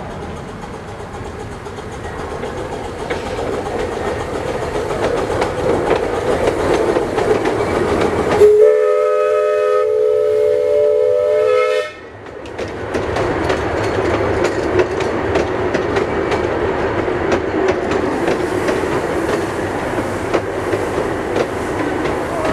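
Small 15-inch-gauge live steam locomotive, a 2-6-0, with its train rolling along the rails and growing louder. About eight seconds in, its steam whistle blows once for about three seconds, a chord of several notes that cuts off sharply, and the clicking of wheels over rail joints carries on after it.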